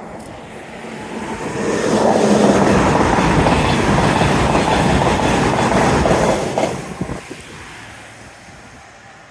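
Great Western Railway Intercity Express Train (IET) passing at speed: its rushing noise builds over the first couple of seconds, holds loud, then dies away after about seven seconds.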